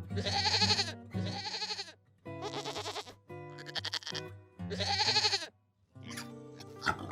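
A bleating sheep or goat gives five wavering bleats of about a second each, with short gaps between them, over background music.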